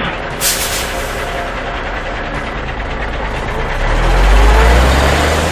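Cartoon truck engine sound effect running, with a short hiss about half a second in and a deep low rumble that swells over the last second and a half.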